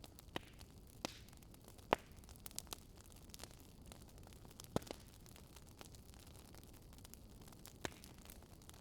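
Wood fire crackling: scattered sharp pops and snaps at irregular intervals over a faint hiss, the loudest about two seconds in and just before five seconds.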